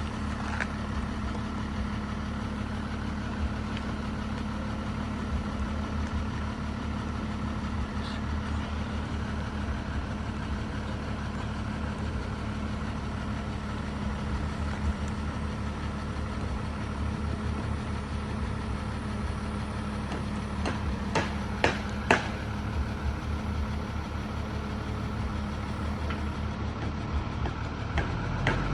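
Heavy truck engine running steadily at idle, an even low hum. A few sharp clicks come about three quarters of the way through.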